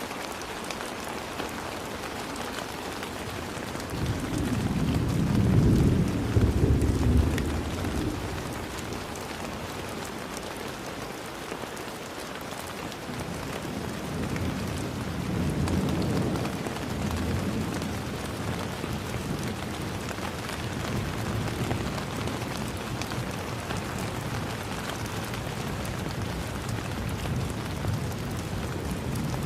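Steady rain falling, with a low rolling rumble of thunder that swells about four seconds in and lasts about four seconds. A weaker rumble follows around the middle.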